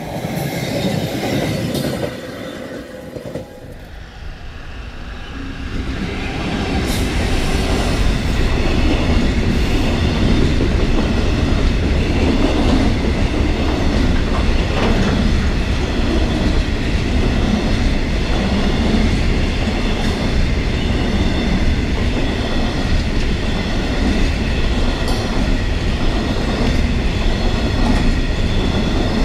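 A long freight train of bogie hopper wagons rolling through a level crossing. It is a steady heavy rumble with wheels clattering over the rail joints and a steady high wheel squeal over it, building up over the first several seconds and then holding.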